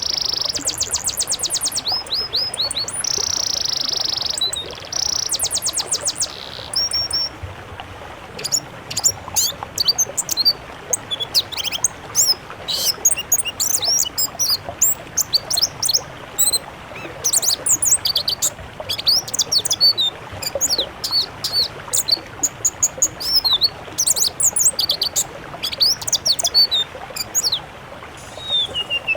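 Songbirds singing, in a compilation of songs of several species used for song-training: for the first several seconds a rapid, high trilling song with buzzy held notes, then a fast run of varied sharp chirps and whistles.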